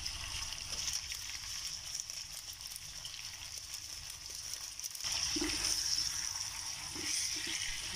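Chicken feet, onions and garlic sizzling in a hot nonstick pan, a steady hiss that grows louder about five seconds in, when a wooden spatula starts stirring them.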